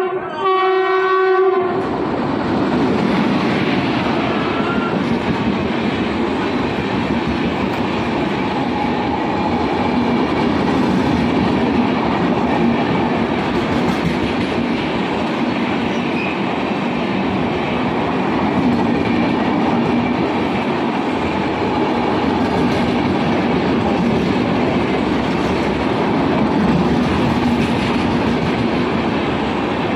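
Locomotive horn sounding one steady note that cuts off about a second and a half in. Then a passenger express train passes at speed, with the continuous rumble of its coaches and wheels on the rails.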